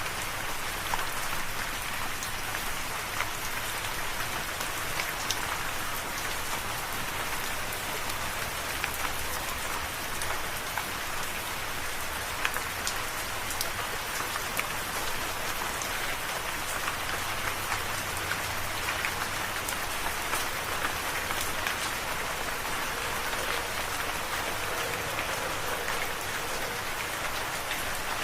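Steady rain falling, a dense even hiss of drops hitting a surface with many small individual drop ticks.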